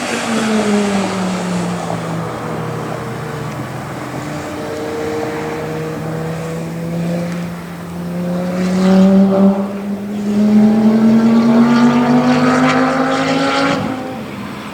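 Lamborghini Gallardo V10 engine running hard on a track. The engine note drops at first, holds, then climbs steadily through the revs and falls sharply near the end as the car shifts up.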